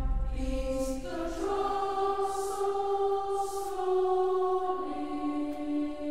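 Background music: a choir singing long held notes that move to new pitches about a second in and again near the five-second mark.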